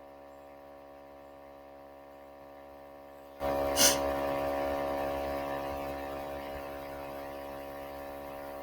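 Steady electrical mains hum from a faulty audio connection. About three and a half seconds in it jumps much louder with hiss, a sharp crackle follows half a second later, and then it slowly fades.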